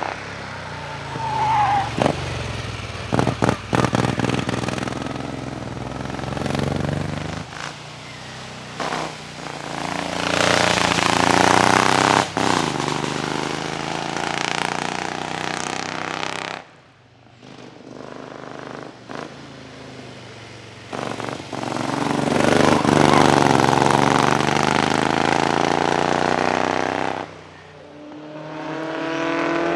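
Vintage racing car engines accelerating hard, their pitch rising and falling through the gears over several separate runs, with a few sharp pops along the way.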